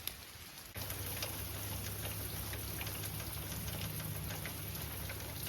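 Rain falling steadily, an even hiss with many scattered drop ticks, from a heavy rainstorm that is flooding the ground. It jumps louder a little under a second in.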